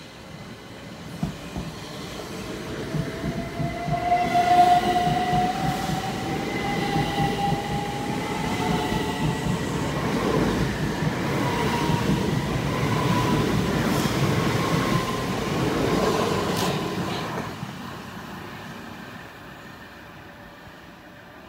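Electrostar electric multiple unit running through the station at speed. Its wheels clatter over the rail joints, and a motor whine rises slowly in pitch and then holds. The sound builds as the train nears, is loudest as it passes close by, and fades away after about seventeen seconds.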